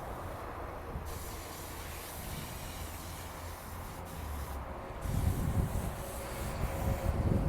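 Steady hiss with a low hum. From about five seconds in, a louder ragged rumble joins it, like wind buffeting the microphone.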